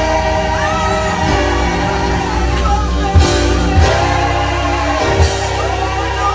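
Live gospel music: voices singing over a band with a heavy, steady bass and a few sharp drum hits.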